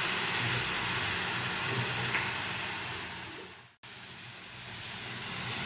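Chopped mushrooms, onion and tomato sizzling in a little oil in a nonstick kadai, a steady hiss. It fades and cuts out abruptly a little under four seconds in, then comes back quieter.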